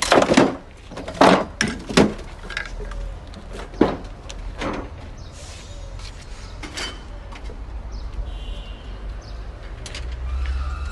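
A series of sharp knocks and clatters, about six in the first four seconds and a few fainter ones later, over a low steady hum.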